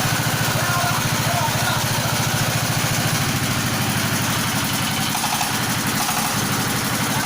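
Engine of a floating fish-feed pellet machine running steadily with a regular low pulse; its note shifts slightly about three seconds in and again around five to six seconds.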